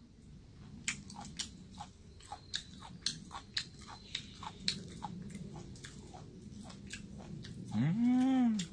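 Close-up chewing of cooked beef omasum (tripe), with crisp crunching clicks about twice a second. Just before the end comes a short hummed "mmm" that rises and falls in pitch.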